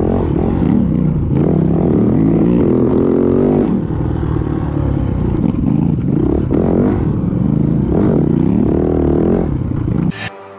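Motorcycle engine at speed, revving up and falling back over and over as it runs through the gears. It cuts off suddenly just before the end.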